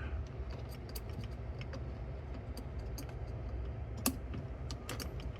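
Scattered small clicks and taps of hands working a cassette deck's tape transport mechanism, the sharpest about four and five seconds in, over a steady low hum.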